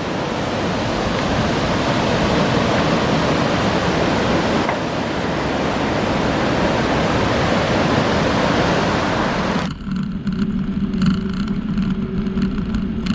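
Wind rushing over the microphone while cycling, a steady even roar of noise. It cuts off abruptly near the end and gives way to a steady low hum.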